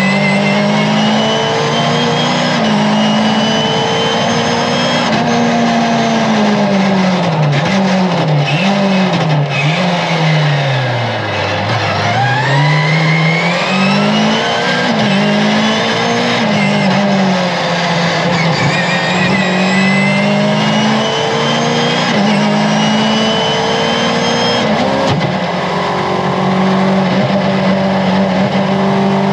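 Mercedes 190E 2.3-16's four-cylinder 16-valve engine driven hard, heard from inside the cabin: the revs climb and drop again and again with quick gear changes. About twelve seconds in they fall right down under braking, then climb back up through the gears, over steady tyre and road noise.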